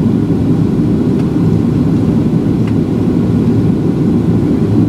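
Steady low roar inside the cabin of a Boeing 737-700 in flight: engine and airflow noise.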